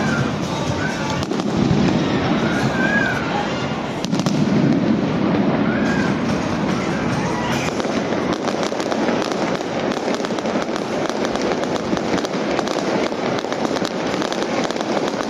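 Fireworks going off without a break: deep booms from the shells in the first few seconds, then a dense run of crackling bursts through the second half.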